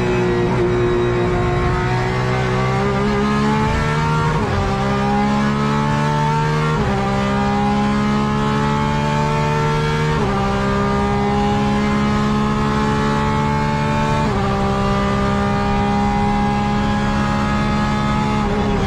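Porsche 911 RSR GTE race car's flat-six engine under hard acceleration, heard from inside the cockpit. The engine note climbs through the gears with about four quick upshifts, and the revs drop at the end.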